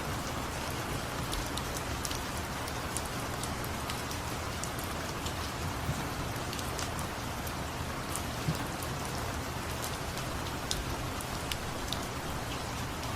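Steady rain falling, with scattered sharp ticks of individual drops landing close by.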